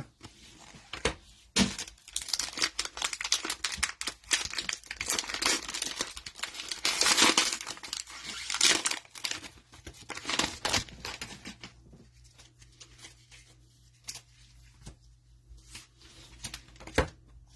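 Cellophane wrapper of a trading-card pack being torn open and crinkled, a dense crackle loudest about seven seconds in. After that it thins to scattered clicks of cards being handled.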